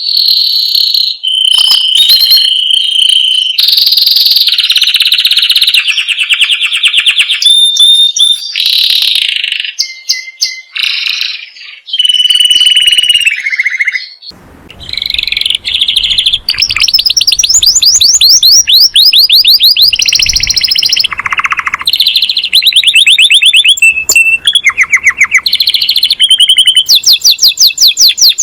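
Canary singing a continuous run of fast trills and rolls, with short held whistles between them. About halfway in, a faint background noise comes up beneath the song.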